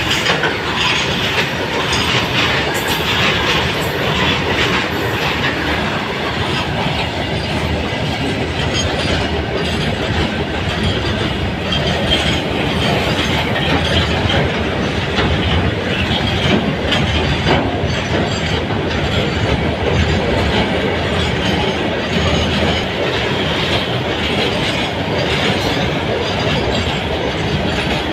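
Loaded freight train of BRN flat wagons carrying rails and BOXN open wagons rolling past close by: a steady, loud rumble and clatter of wagon wheels on the track.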